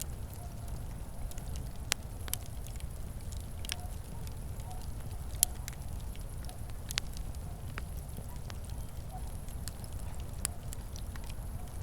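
Wood fire burning with a steady low rumble and irregular sharp crackles and pops, the loudest pop about five seconds in.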